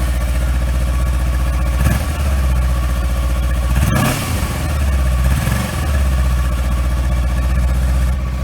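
Kawasaki Versys X300's parallel-twin engine idling through its stock muffler and revved in three short blips, about two, four and five and a half seconds in. The second blip is the highest, and the engine drops back to idle after each.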